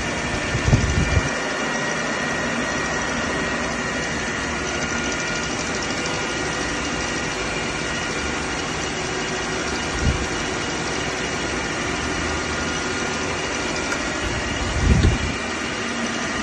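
Arno-Nomo milling machine running: a steady mechanical hum with several steady high tones through it. A few brief low thumps come about a second in, around the middle and near the end.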